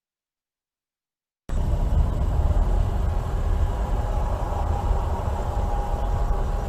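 Dead silence, then about a second and a half in, a moving car's steady low rumble of engine and road noise starts abruptly.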